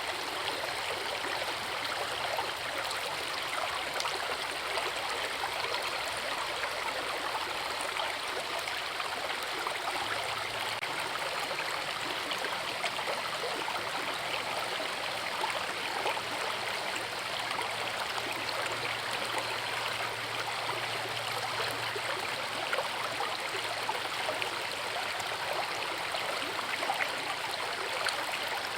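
Forest river running over rocks: a steady, even rush of water with a fine babbling splash.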